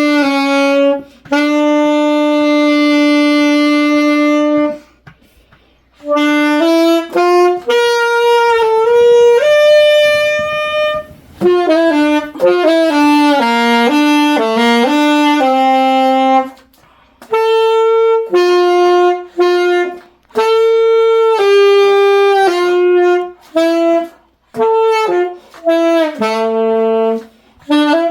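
A solo saxophone playing a slow melody without accompaniment: single held notes with short breaks between phrases.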